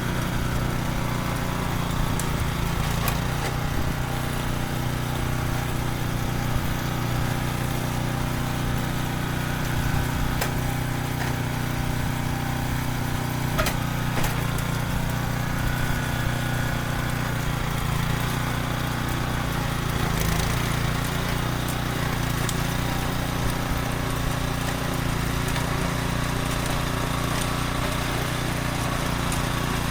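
Small engine of a mini tractor running steadily while cultivating, with a few brief knocks over it.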